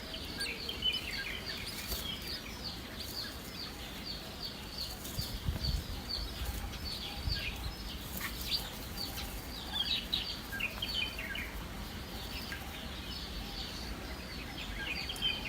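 Nestling birds chirping: a steady run of short, high, downward-sliding peeps, several a second, typical of baby birds begging to be fed. A couple of low thumps come near the middle.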